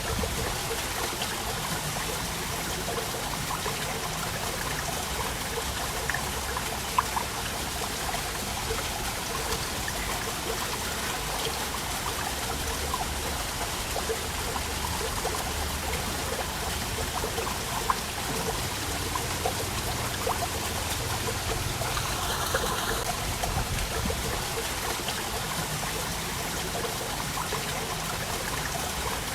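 Waterfall: a steady rush of falling water, dotted with many small splashes.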